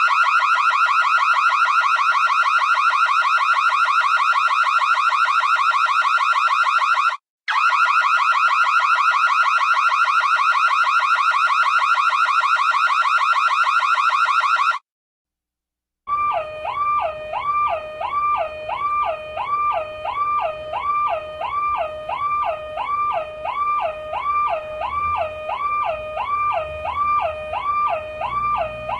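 Two electronic car alarm sirens, one after the other. The first is a harsh, rapidly pulsing tone with a brief break about seven seconds in, and it stops after about fifteen seconds. After a second's pause, the second alarm starts: a wailing tone that swoops up and down about twice a second.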